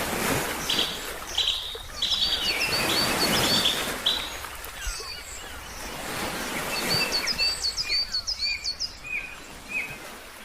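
Ocean waves washing in swells, with birds chirping over them in quick runs of short, high chirps.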